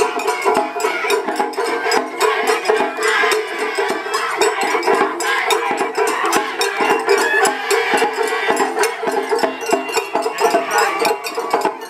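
Japanese festival hayashi music from a dashi float: bamboo flute with taiko drums and a small hand gong, played continuously with many quick drum and gong strokes.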